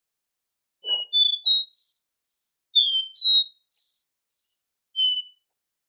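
Copper seedeater (Sporophila bouvreuil) singing: a phrase of about ten clear, short whistled notes that step up in pitch, drop, climb again and end on a lower note.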